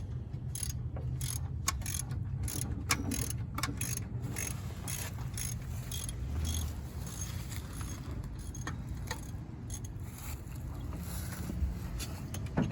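Hand tools clicking and tapping in irregular bursts while the old coolant temperature sensor is worked loose, over a steady low rumble.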